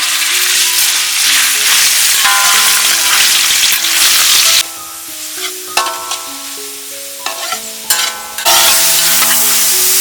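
Food sizzling in hot oil as it is stirred and fried, starting suddenly and loudly. The sizzle drops back a little before halfway and flares up loud again near the end.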